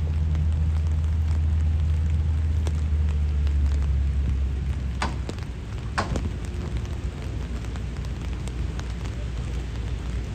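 Steady rain falling on a city street, with a low rumble of passing traffic that fades out about halfway through. Two sharp knocks about a second apart come just after the rumble fades.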